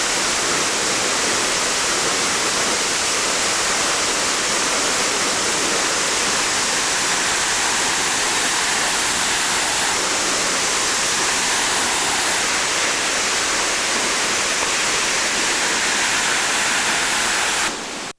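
Steady rushing of falling or flowing water, a loud even hiss, easing a little near the end.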